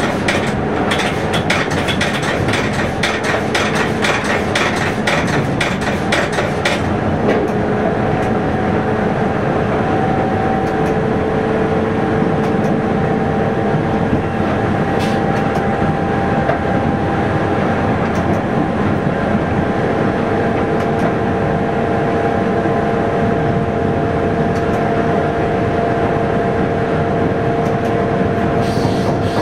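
Train running along the line, heard from inside the driver's cab: steady running noise with rapid clicking of the wheels over the track for the first seven seconds or so, then smoother running with a steady whine.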